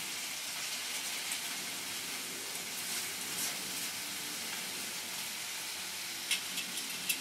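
Chicken wings, mango, pear and peppers sizzling steadily on a hot griddle, with a few sharp clicks near the end.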